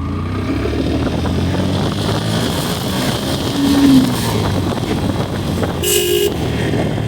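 Motorcycle engine running steadily on the road, with wind noise on the microphone. A short vehicle horn toot sounds about six seconds in.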